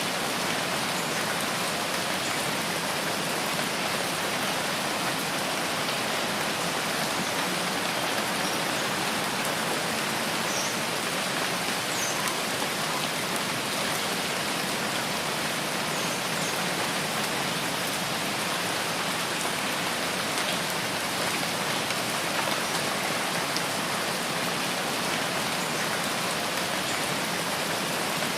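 Steady rainfall in a rain forest: an even, unbroken hiss of rain coming down, with no let-up.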